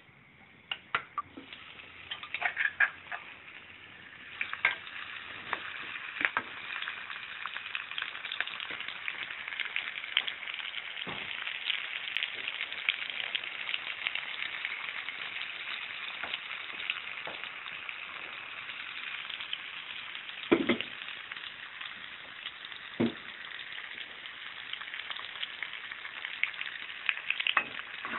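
Pork frying in hot oil in a wok: a few scattered pops at first, then a steady sizzle that builds and holds. There are two sharp knocks in the second half, and near the end a metal spatula clicks and scrapes against the wok as the meat is stirred.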